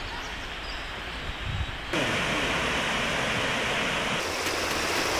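Waterfall water rushing, a steady noise that jumps louder about two seconds in.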